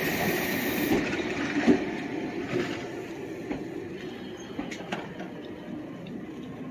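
Meitetsu electric train slowing at the platform, its wheels rumbling and clacking over the rails and fading as it comes to a stop, with a brief high hiss near the start.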